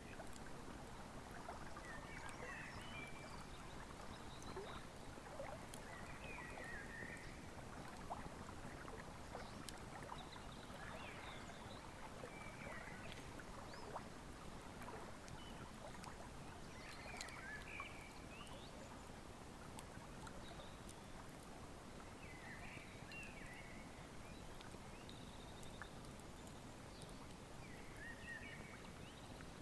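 Wood fire crackling with scattered small snaps over the steady rush of a river. A bird's short song phrase comes in every four to five seconds.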